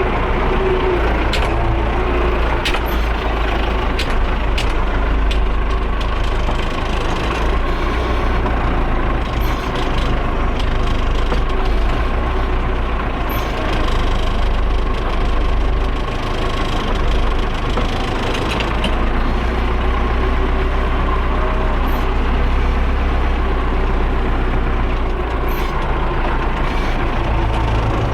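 Tractor engine running steadily under way while pulling hay rakes, with a few sharp clicks and rattles.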